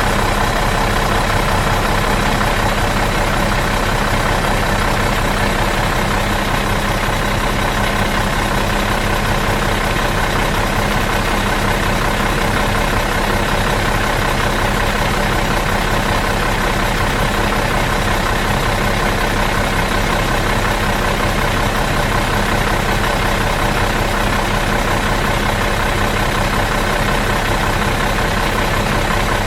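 Bus engine idling steadily out of gear, an even, unchanging hum.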